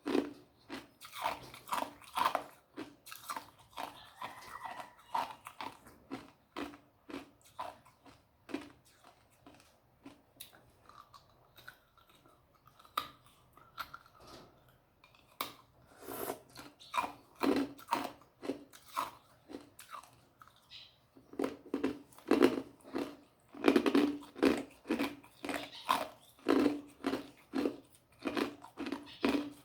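Ice being chewed: a long run of sharp crunches between the teeth, about two a second, quieter for a few seconds around the middle.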